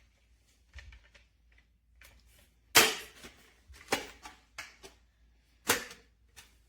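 Hard objects knocking sharply in a small room: three loud clacks, the first about three seconds in and the others roughly one and three seconds after it, with a few fainter clicks between.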